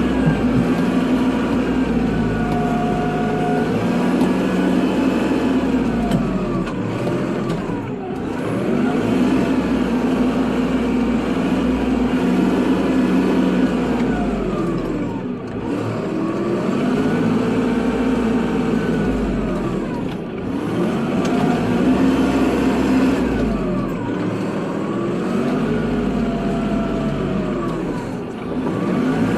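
Kubota tractor's diesel engine running under load. Its pitch rises and falls in repeated swells, with a dip every five to eight seconds as the tractor works back and forth.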